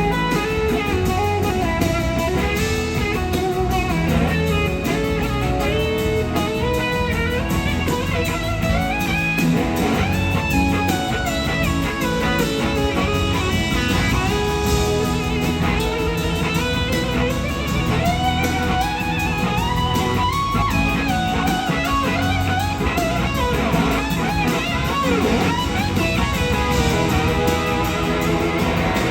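Electric slide guitar soloing live over a blues-rock band. Its notes glide between pitches with a wavering vibrato above a steady bass foundation.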